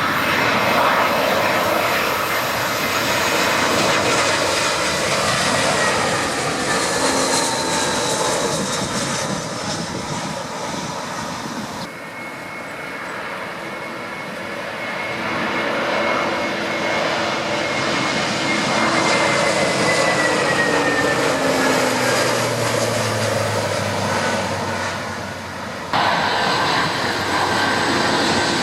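Jet airliner engines running loud as aircraft pass, a dense roar with whining tones that slide down in pitch. The sound changes abruptly about twelve seconds in and again near the end, where separate recordings are cut together.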